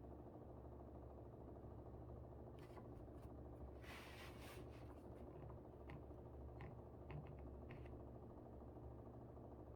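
An air conditioner running with a steady low hum. Over it come a short rustle about four seconds in and a few faint light taps a couple of seconds later.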